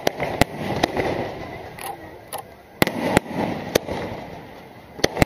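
Aerial firework shells bursting overhead: about eight sharp bangs at irregular intervals over five seconds, with a rumbling echo rolling on between them.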